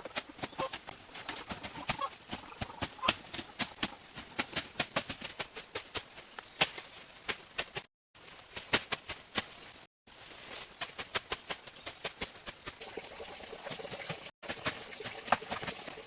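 A steady high-pitched insect drone, like crickets or cicadas, with many sharp, irregular clicks and knocks over it. The sound cuts out briefly three times.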